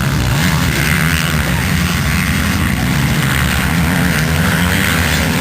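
Motocross motorcycle engines running steadily, their pitch wavering up and down.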